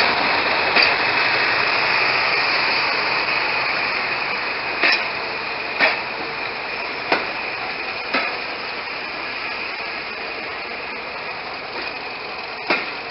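Diesel train running with a steady mechanical noise that slowly fades. Sharp knocks cut across it, a run of them about once a second in the middle and a couple more near the start and end.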